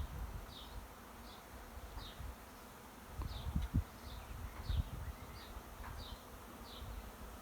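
A swarm of honeybees buzzing as they fly around and settle into a hive. A short high chirp repeats about every 0.7 s over the buzzing.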